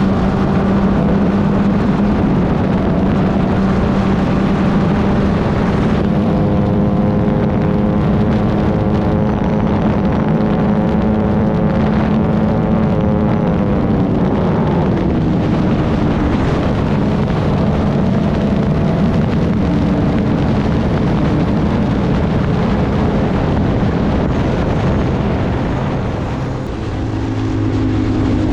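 Club Ford race car's engine running hard, with a rush of noise around it. About halfway through, its pitch falls away steadily as the car slows. Near the end there is a brief dip in loudness and the engine settles on a new, lower note.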